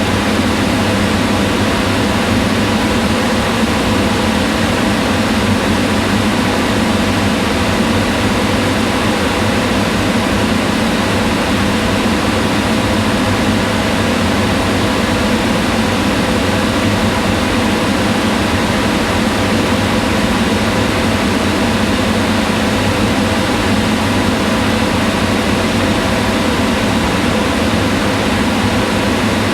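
Kitchen range hood fan running steadily: a constant whir with a low hum and faint steady tones.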